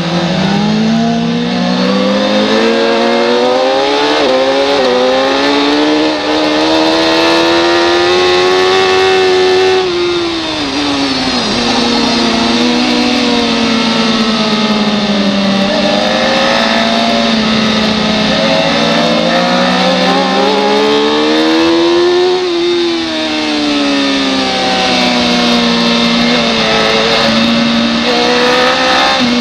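Racing motorcycle engine at full throttle. The revs climb for about ten seconds and then fall sharply as the bike brakes and downshifts, then climb again and fall again near the end, with steady wind rush.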